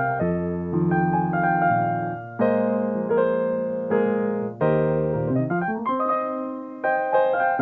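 Solo piano playing held chords, a new chord struck every second or so.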